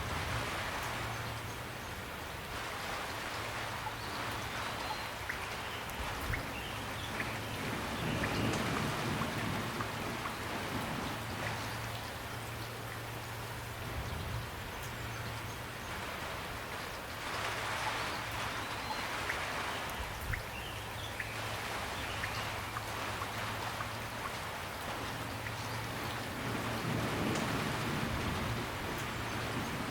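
Steady rain falling, with scattered individual drops ticking close by; it swells louder twice, about a quarter of the way in and just past the middle.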